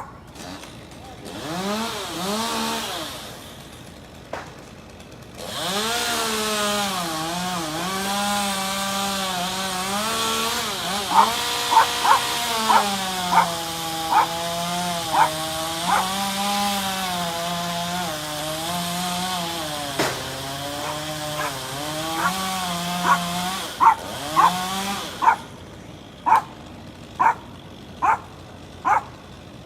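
Two-stroke chainsaw running at high revs and cutting, its engine pitch sagging and recovering as it works through the wood. After a short burst the saw stops for a moment and then runs steadily for most of the stretch. Near the end it stops, and a series of short sharp sounds follows, about one a second.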